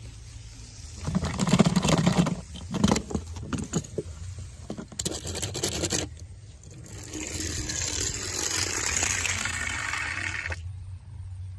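Toy cars being handled: plastic clattering and scraping for several seconds, then a steady rushing noise that lasts a few seconds and stops suddenly near the end.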